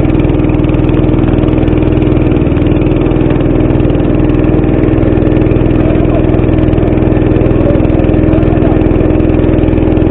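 Small boat's engine running steadily at an even pitch.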